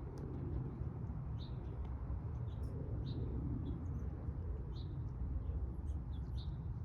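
Small birds chirping in short, high, irregular chirps over a steady low rumble.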